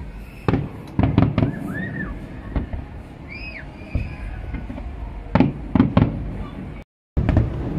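Fireworks going off as a series of sharp bangs and crackles over a low rumble, several bangs close together at times. There are short rising-and-falling chirps in between, and the sound drops out completely for a moment near the end.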